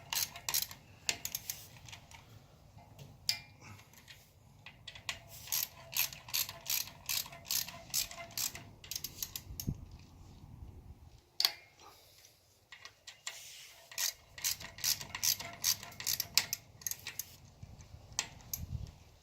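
Hand ratchet with a 10 mm socket clicking as the clutch spring bolts of a 2008 Suzuki Hayabusa are tightened down. The clicking comes in two runs of rapid clicks, with a pause in between.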